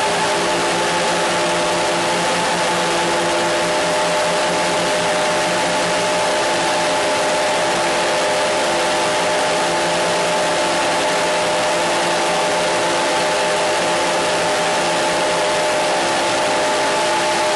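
Steady static hiss with several faint steady tones beneath it, typical of radio noise.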